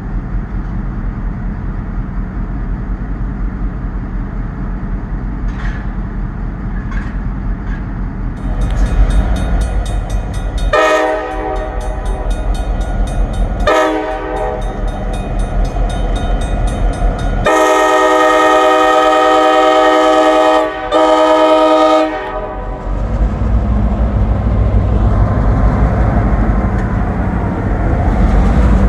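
Diesel freight locomotive's air horn sounding two short blasts, then a long blast followed by a short one, over the steady low rumble of the locomotives. The rumble grows louder near the end.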